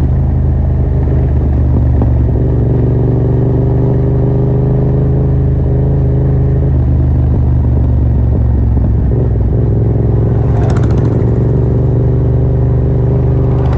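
Yamaha MT-07's parallel-twin engine running loud through an open Yoshimura R77 exhaust with its dB killer removed, under way with the revs climbing slowly for a few seconds and then holding steady. A brief rasping clatter comes about eleven seconds in.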